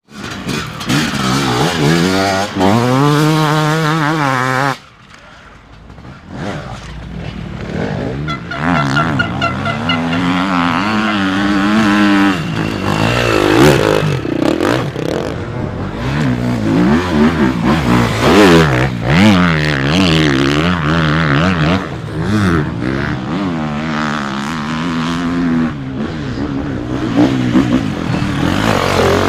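Off-road dirt bike engines revving hard, the pitch climbing and falling as the throttle is worked and gears change. An abrupt change about five seconds in drops the sound, which then builds again.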